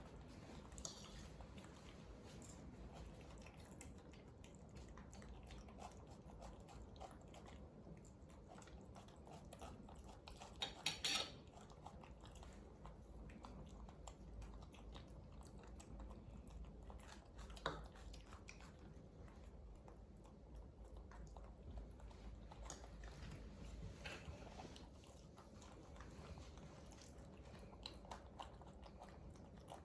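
Faint chewing of baby monkeys eating rice, with many small clicks and two brief louder clatters.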